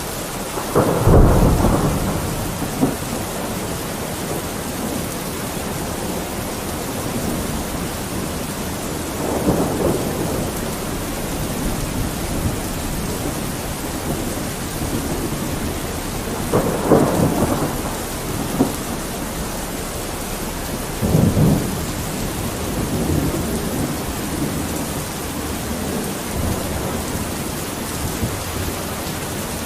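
Steady rain, with four short rolls of thunder rising out of it, the loudest about a second in.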